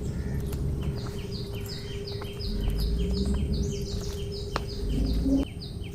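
Birds chirping, short notes repeated several times a second, over a low rumble that drops away near the end and a steady faint hum.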